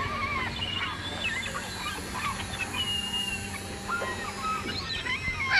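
Many birds calling at once: short, overlapping chirps and squawks that rise and fall in pitch, with a faint steady low hum underneath.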